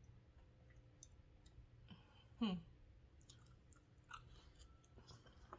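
Quiet mouth clicks and soft chewing sounds from a person eating. About two and a half seconds in comes one brief hum with falling pitch, like a thinking "mm".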